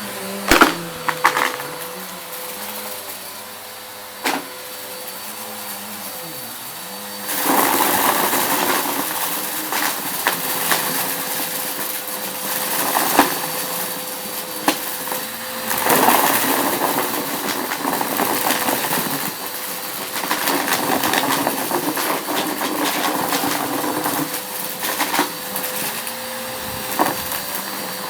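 Vacuum cleaner running on a rug and sucking up crunchy debris, with crackles and clicks of bits rattling up the nozzle. The pickup noise grows louder about a quarter of the way in.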